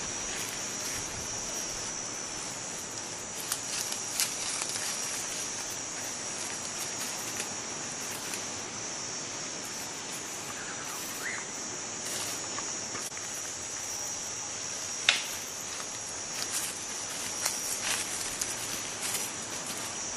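A steady, high-pitched insect drone, with scattered sharp clicks and a short rising whistle about halfway through.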